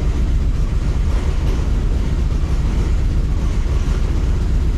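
Mk1 Ford Fiesta's turbocharged Zetec four-cylinder engine idling steadily with a low rumble, still cold shortly after a cold start.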